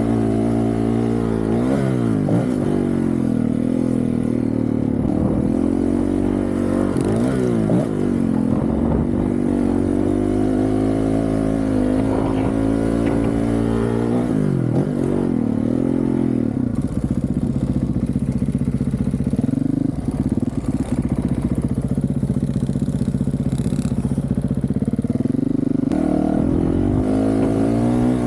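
Honda CRF450RL's single-cylinder four-stroke engine, breathing through a titanium Yoshimura RS-4 exhaust, revving under hard riding. Its pitch falls sharply and climbs back several times as the throttle is chopped and reopened, then holds high and steady for a long stretch near the end.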